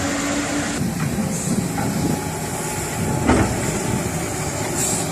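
Steady mechanical running noise with hiss, interrupted by a single knock about three seconds in.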